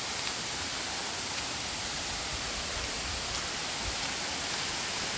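Waterfall cascade: rushing water making a steady, even hiss.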